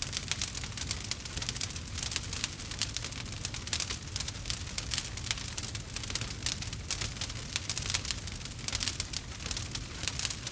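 Campfire of burning wood crackling steadily, with dense quick pops and snaps over the low rumble of the flames.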